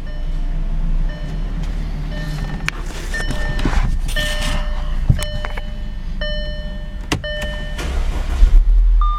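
Audi CAEB 2.0 TFSI turbocharged four-cylinder petrol engine running with a steady low rumble, louder briefly near the end. Short electronic beeps and a few sharp clicks sound over it.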